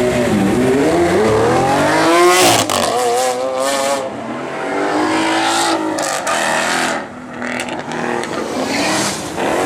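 Performance car engines revving hard as the cars accelerate away. The pitch climbs and then drops sharply at the gear changes, several times over.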